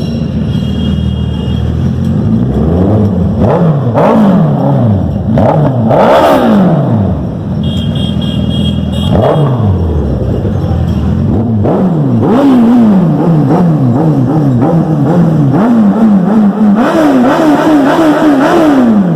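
Suzuki Hayabusa's 1340cc inline-four engine, on its stock exhaust, being revved again and again, the pitch climbing and dropping. In the second half the throttle is blipped in quick succession.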